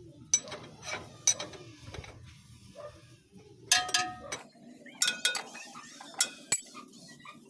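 Sharp metal clanks and clinks of tools and parts being handled while working on a motorcycle's sprocket hub. They come irregularly, about eight strikes, the loudest a little under four seconds in and again around five seconds, some ringing briefly.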